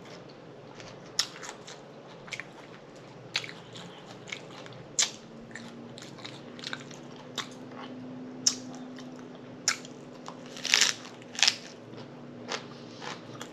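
Close-miked bites and chewing of a collard green wrap filled with turkey, cheese and pickles. Crisp crunches come at irregular moments, the loudest pair about eleven seconds in.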